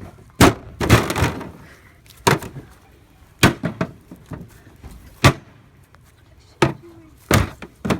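A refrigerator door being struck hard again and again: about eight sharp, irregularly spaced impacts, a couple of them in quick succession about a second in.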